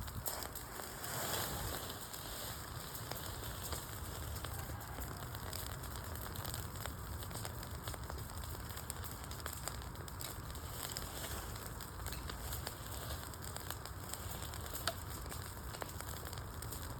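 Wood fire burning, the logs crackling with many small pops over a low steady rumble; one sharper pop about fifteen seconds in.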